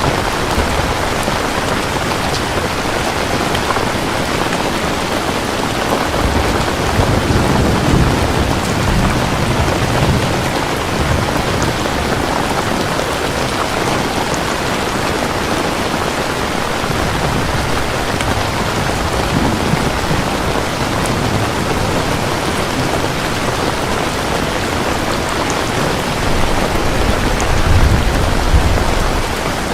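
Steady heavy rain falling, with thunder rumbling low twice: once a few seconds in and again, louder, near the end.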